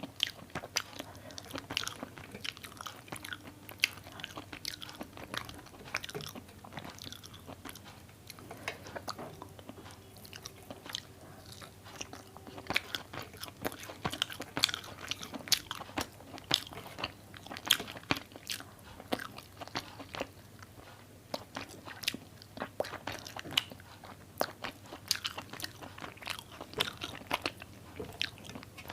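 Close-miked eating sounds: chewing, with frequent wet mouth smacks and crisp crunches, several a second.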